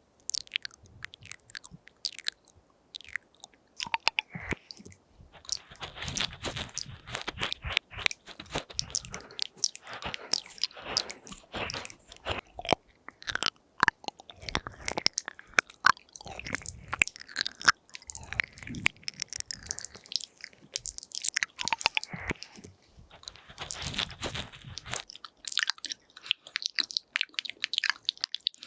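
ASMR mouth sounds close to a binaural microphone: a steady stream of quick wet clicks, smacks and tongue sounds. They grow denser and fuller from about five seconds in until about twenty-five seconds, then thin out again.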